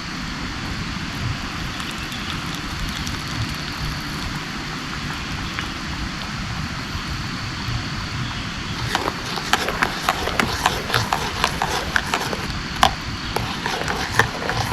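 Steady rain falling. In the second half comes a quick, irregular run of sharp knocks and taps.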